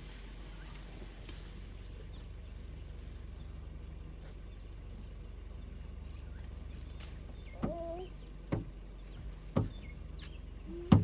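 Birds chirping faintly over a steady low hum. From about seven and a half seconds in come a few sharp knocks, the loudest right at the end.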